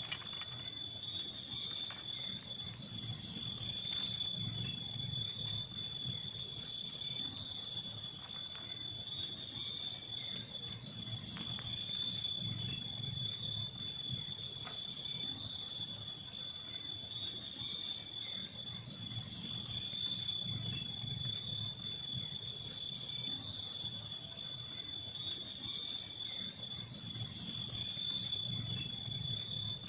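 Forest insects, crickets or cicadas, calling in a steady high-pitched chorus at several pitches at once, swelling and fading every few seconds, over a low wavering rumble.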